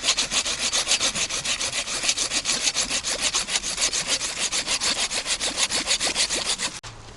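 Hand saw cutting through wood in fast, even back-and-forth strokes, about five a second, stopping suddenly just before the end.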